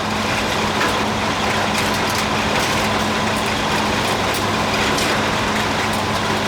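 1968 Pontiac GTO's 461 stroker V8 running steadily at low speed, heard from inside the car as it rolls slowly over broken, dug-up road base.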